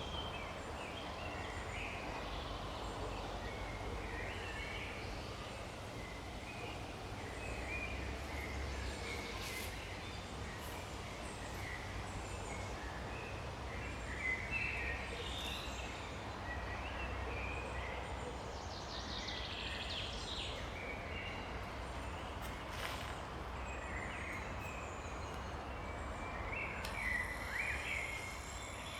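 Forest birds singing and calling, many short chirps scattered throughout over a steady low background rumble.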